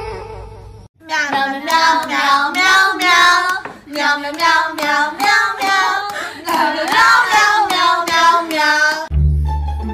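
A high-pitched, child-like voice sings a tune in short phrases, starting about a second in.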